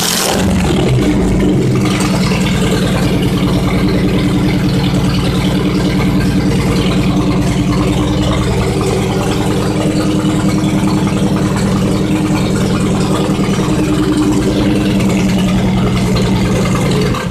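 MG Midget's four-cylinder engine idling steadily through a short side-pipe exhaust. The engine cuts off at the end.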